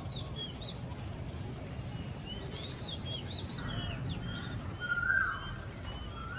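Small birds chirping over and over in short high notes, with a louder, longer whistled note about five seconds in, over a steady low rumble of city background noise.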